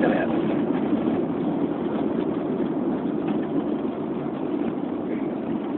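Steady engine and road noise from inside a moving car.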